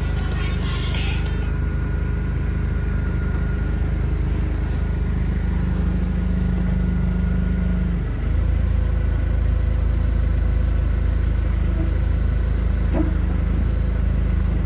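Box truck's engine running steadily with a low rumble, which shifts and grows a little louder about eight seconds in.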